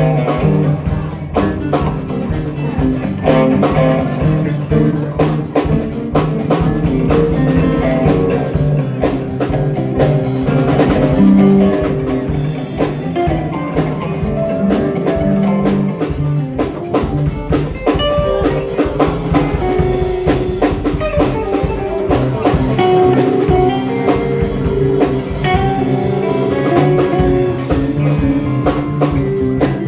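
Live rock band playing an instrumental passage: guitar over bass and drum kit, with no singing.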